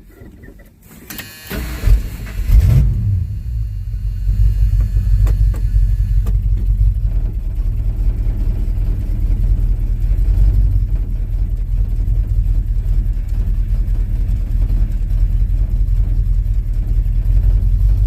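1979 Ford truck engine cranked on the starter about a second in, catching and revving briefly, then idling steadily.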